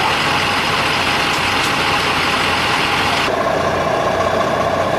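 A large vehicle's engine idling with a steady low hum. About three seconds in, the sound changes: the hiss drops away and a steady mid-pitched tone comes in.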